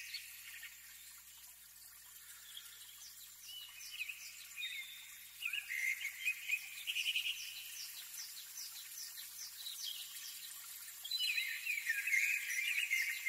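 Birds singing and chirping: warbling, gliding calls come and go, with a run of quick, evenly repeated high chirps in the middle.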